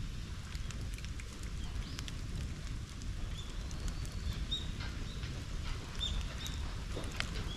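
Bonfire crackling with scattered sharp pops over a steady low wind rumble on the microphone. From about three seconds in, a bird calls in short high chirps.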